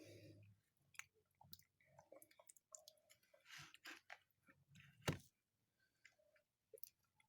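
Quiet eating sounds of someone taking soft pineapple pudding (mazamorra de piña): small wet mouth and lip clicks and soft chewing, with one sharper click about five seconds in.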